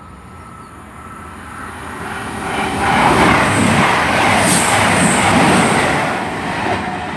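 A five-carriage Class 221 Super Voyager diesel multiple unit passing through the station without stopping. It grows louder over the first few seconds, is loudest in the middle, then fades as it goes by.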